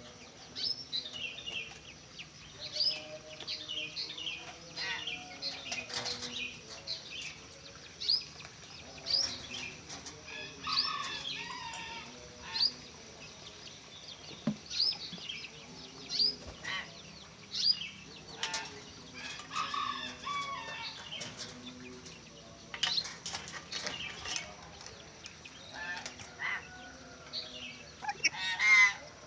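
Caged hill mynas and lories calling: many short, high chirps and whistles, broken by louder harsh squawks, the loudest near the end.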